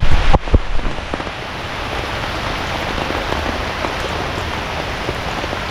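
Heavy rain falling steadily on a surface, with a few sharp knocks in the first half-second.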